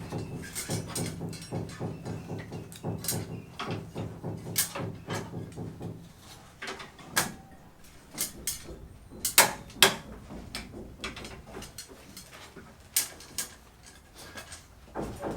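Scattered sharp knocks and clacks from building work, over a low, steady hum that stops about six seconds in.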